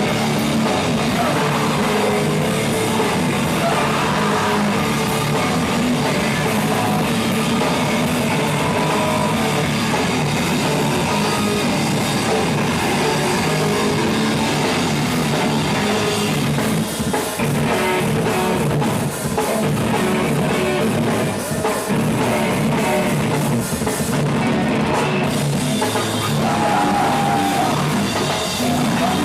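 Live rock band playing heavy, loud rock with a drum kit and electric guitars, without pause.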